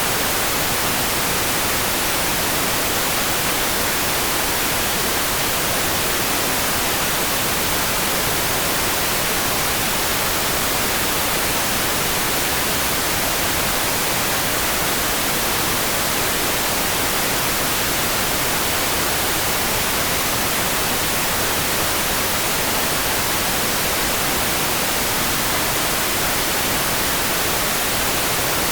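Steady rain-sound track: an even, unbroken hiss weighted toward the high end, with no single drops, thunder or other events standing out.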